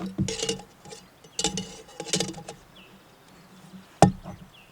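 Metal clinking and scraping as the parts of a Fire Maple gas camping stove are handled and screwed together, in two rattly bursts, then one sharp loud click about four seconds in.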